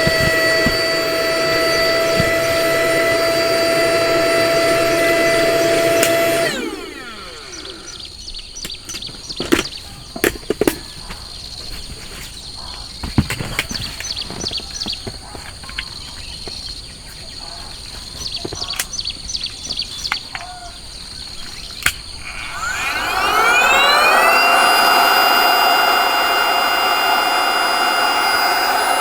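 Small electric motor with a fan, like a portable blower or air pump, running steadily. It is switched off a little over six seconds in and winds down in pitch. About sixteen seconds of scattered clicks and handling knocks follow, then it is switched on again and winds back up to speed.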